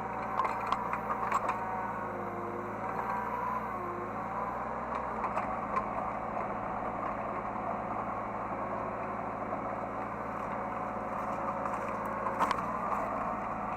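Hydraulic excavator running, heard from the operator's cab: a steady engine drone whose pitch bends up and down a few seconds in, with a few sharp clicks or knocks, one louder near the end.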